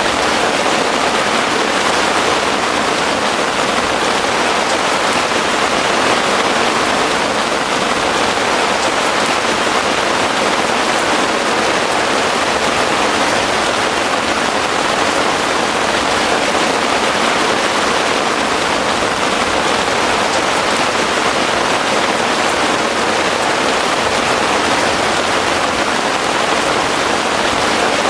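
Heavy rain pouring steadily, an even hiss of falling water with no let-up.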